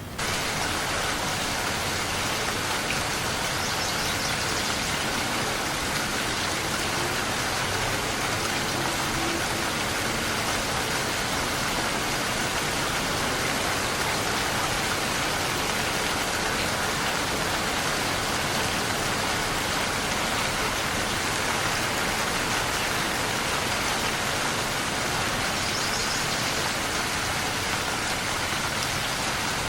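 Steady heavy rain falling and pattering, a dense even hiss that cuts in suddenly louder right at the start and then holds without change.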